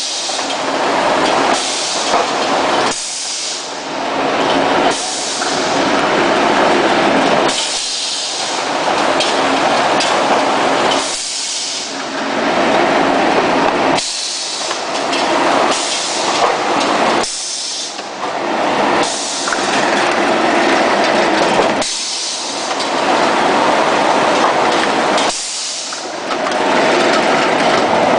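Longitudinal veneer slicer running, its knife cutting wood in repeated passes a few seconds apart, each pass a loud hissing rush that dips briefly between strokes.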